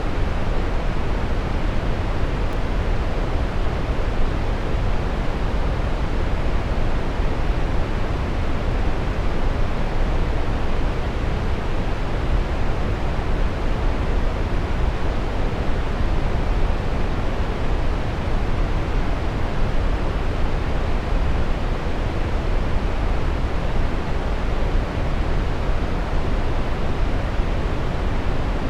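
Waterfall rushing: a steady, unbroken roar of falling water, strongest in the deep end and without any change.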